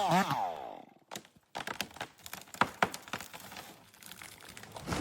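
A falling-pitch whine dies away in the first second. After a short pause comes a run of sharp, irregular cracks and snaps, like wood splitting and breaking.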